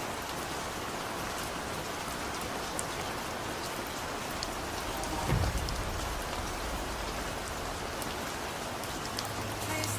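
Steady rain falling on a surface, an even hiss of drops, with a brief low rumble about halfway through.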